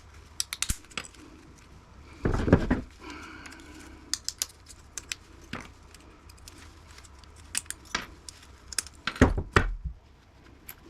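Hand tools and small metal and plastic parts clicking and clacking on a workbench as an air conditioner's circuit board is taken apart, with two heavier knocks about two and a half seconds in and again near the end.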